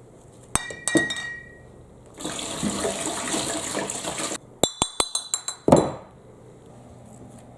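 Glass marbles clinking and rolling down a marble run: two ringing clicks near the start, a couple of seconds of rushing noise in the middle, then a quick string of about eight sharp clinks and a louder knock before it goes quiet.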